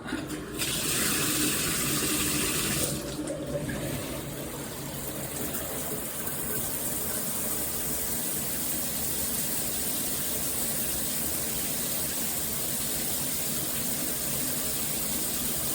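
Water spraying from a Hibbent all-metal shower head at full flow. The sound shifts a little about three seconds in, then runs steadily.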